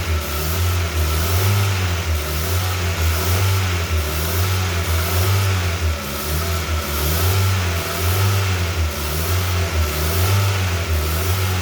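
Direct-injection four-cylinder engine of a Hyundai Avante running above idle, its speed swinging up and down repeatedly, while a carbon-cleaning treatment for direct-injection engines is run through it to clear deposits blamed for knocking.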